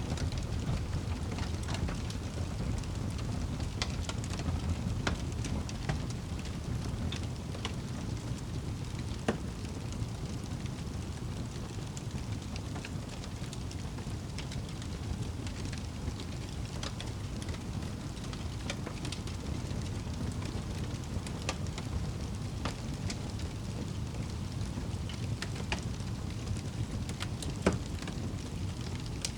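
Wood fire crackling in a fireplace: a steady low rumble of burning with scattered sharp crackles and pops, two of them louder, about nine seconds in and near the end.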